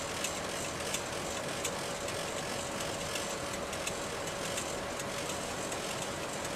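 Steady cabin noise of a P-8A Poseidon patrol jet in flight, an even rush with a steady hum tone and scattered light clicks.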